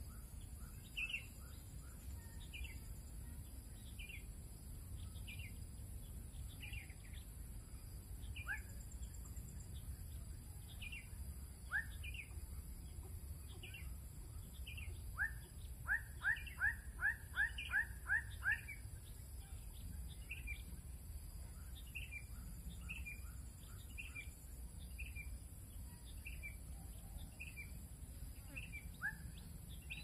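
Small birds chirping: short, falling calls repeating one or two a second, with a quick run of about eight louder calls about fifteen seconds in.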